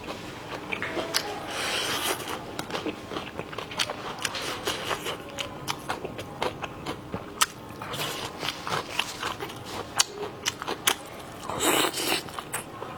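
Close-miked eating sounds: a person chewing and biting food, with many small wet clicks and smacks.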